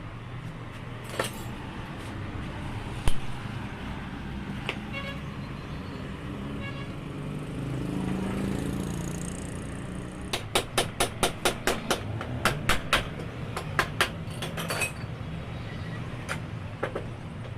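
Steady traffic rumble with a vehicle passing, a single sharp knock about three seconds in, and a quick run of sharp taps, about four a second, a little after halfway.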